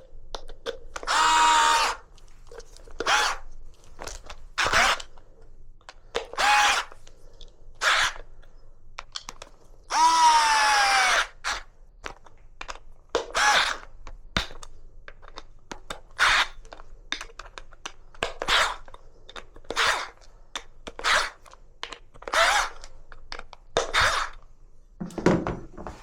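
Cordless drill/screwdriver run in repeated short bursts. Two longer runs, a little after the start and about ten seconds in, have a whine that drops in pitch as the motor comes under load.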